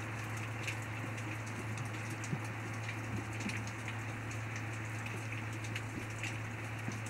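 Steady rain falling, with individual close drops ticking at irregular moments, over a low steady hum.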